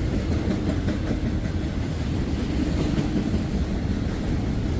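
Freight train of tank cars rolling past, its steel wheels on the rails making a steady rumble.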